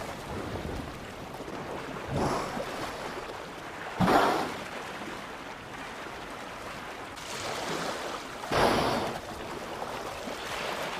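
Open sea washing, with orcas at the surface: three loud rushing bursts of water about two, four and eight and a half seconds in, the one at four seconds the loudest and most sudden.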